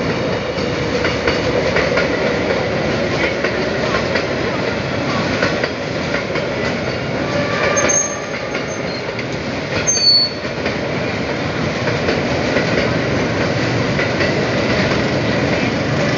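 A train running on its rails: a steady rumble and clatter, with brief high-pitched squeals about eight and ten seconds in.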